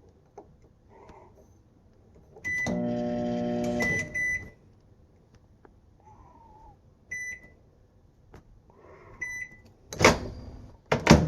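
Microwave oven keypad beeping as buttons are pressed. The oven's hum starts, runs for only about a second and a half and cuts off with a beep, and further button beeps follow: the microwave is not staying on. Two loud knocks near the end.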